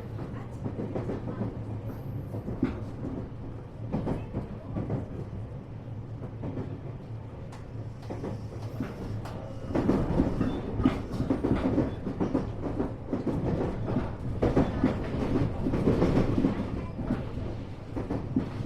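Inside a JR West 227-series electric multiple unit motor car running at speed: a steady low running hum with the wheels knocking and clacking over the rail joints. About halfway through it grows louder and rougher, with denser clattering.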